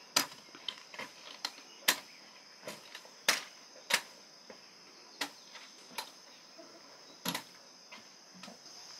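Irregular sharp taps and knocks from aluminium crutch tips and footsteps on stone paving, spaced unevenly about half a second to a second apart. Crickets keep up a steady high chirring underneath.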